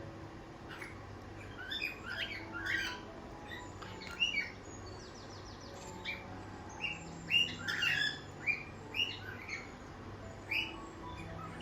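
Cockatiels chirping: many short calls, busier and overlapping in the second half.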